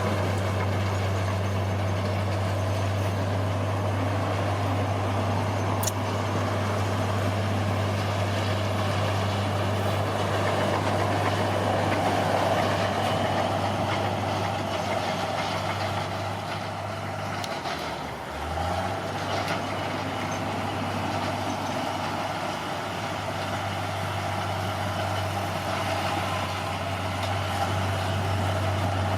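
Diesel engine of a bulldozer running steadily under load. Its low note dips briefly about two-thirds of the way through, then comes back.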